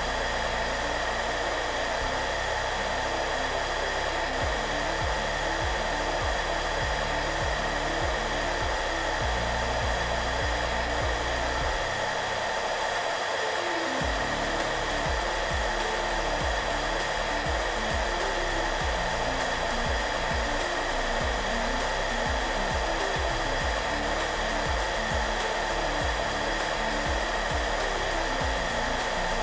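Hair dryer running steadily: an even hiss with a steady whine in it. Soft background music plays low notes underneath and drops out for a moment about twelve seconds in.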